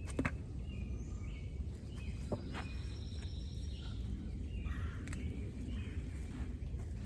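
Birds chirping and calling in short, scattered high notes over a steady low rumble, with a few sharp clicks.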